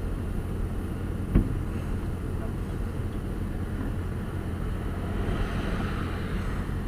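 Engine of the rail work vehicle idling steadily, with one heavy thud about a second and a half in.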